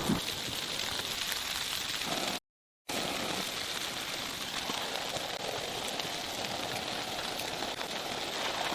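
Steady pattering hiss of precipitation falling on a surface. The sound drops out to complete silence for about half a second, a little over two seconds in, then resumes.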